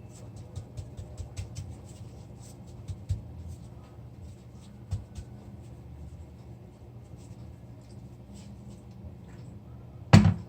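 Light scratching and tapping of chicken tenders being rolled and pressed in a dry almond-flour coating, over a steady low hum. A sharp knock comes near the end.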